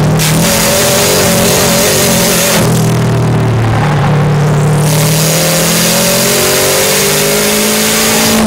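Subaru Impreza STi's turbocharged flat-four engine heard from inside the car at speed on track. It eases off about two and a half seconds in, then pulls hard again, its pitch rising steadily through the second half.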